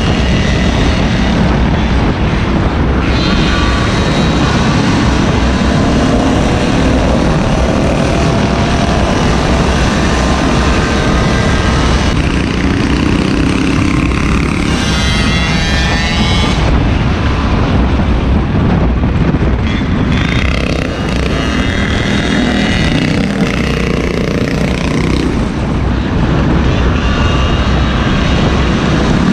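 Small gasoline engines of motorized scooters and mini bikes running under way, their pitch rising and falling as the throttle changes, over a heavy steady rumble.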